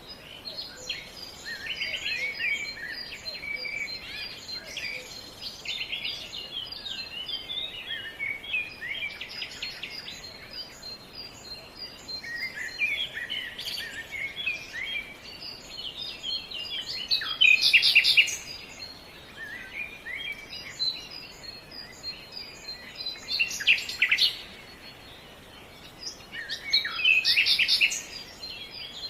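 Several songbirds chirping and singing, with short fast trills; the loudest phrases come about two-thirds of the way through and near the end, over a faint steady background hiss.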